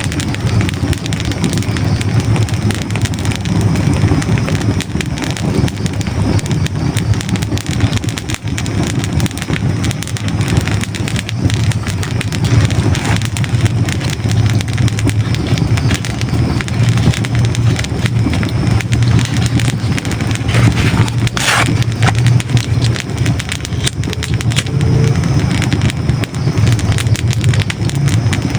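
Hardwood logs burning in a fireplace: a steady low rumble of flames with constant small crackles and pops, and one louder sharp crack about three-quarters of the way through.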